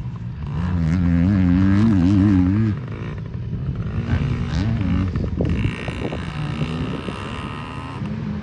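Small two-stroke minibike engine, a Yamaha PW50's 49 cc single, revving up and down as it runs close by, loudest in the first three seconds, then dropping back to a fainter, steadier engine note.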